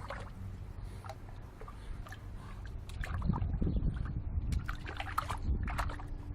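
Water sloshing and splashing in a bird bath as a young Boston terrier–French bulldog mix plays in it, in irregular splashes that grow louder from about three seconds in.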